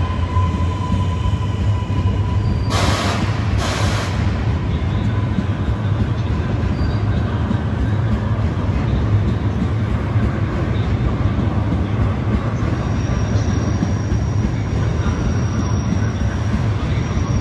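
EuroCity train rolling slowly through the station with a steady low rumble. Two short hisses come about three and four seconds in, and a thin high-pitched wheel squeal joins from about twelve seconds on.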